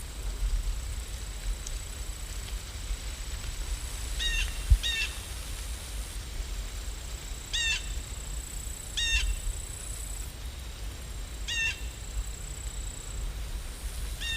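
A bird calling in short, repeated calls, about six of them spaced a second or more apart, over a steady low rumble. A single sharp thump, the loudest sound, comes a little under five seconds in, and a faint high steady whine sits in the background.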